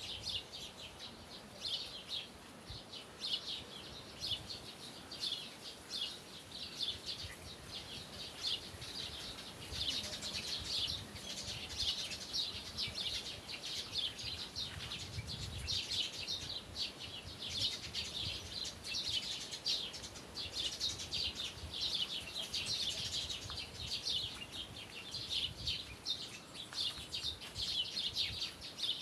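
Many small birds chirping together in a dense, continuous chorus of short, high calls.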